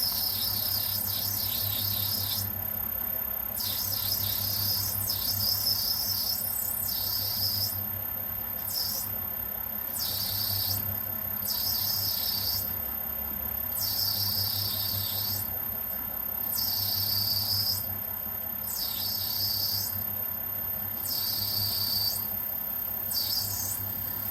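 Myford lathe cutting a workpiece with a lathe tool, making a high hissing squeal in repeated bursts of one to two seconds as the tool is fed in and backed off, about ten times. A low machine hum runs underneath and swells with each cut.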